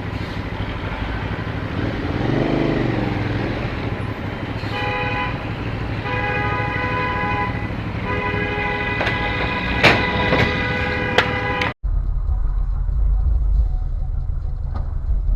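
Car horn honking in three long blasts over steady road and engine noise, the last and longest held for several seconds. It cuts off abruptly and gives way to a steady low engine and road rumble.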